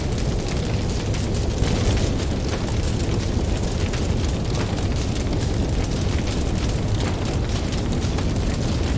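Campfire crackling with many small sharp pops, over a steady low rumble.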